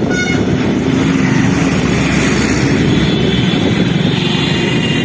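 A Hero Honda Splendor motorcycle running on the road, its steady engine and road noise mixed with wind. A horn toot ends just at the start.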